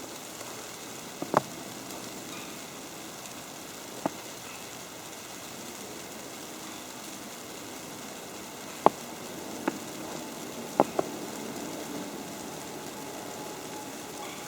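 Snow falling on an umbrella: a steady soft hiss with six sharp ticks at irregular intervals, two of them close together a little after the middle.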